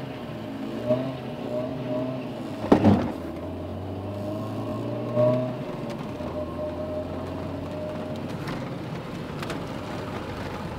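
Opel C20NE 2.0-litre four-cylinder engine, running on LPG, pulling the car along, heard from inside the cabin. Its pitch wavers in the first few seconds and then holds steady. A sharp knock stands out about three seconds in.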